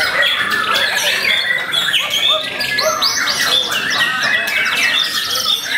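Several white-rumped shamas (murai batu) singing at once: a dense, continuous tangle of fast, varied whistled phrases, trills and chirps.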